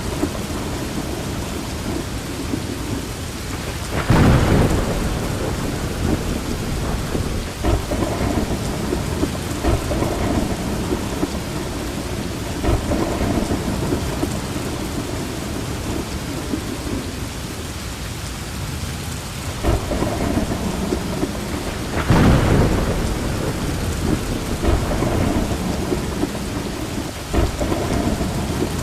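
Steady rain falling with rolling thunder; the thunder swells loudest about four seconds in and again a little past twenty seconds, with smaller rumbles in between.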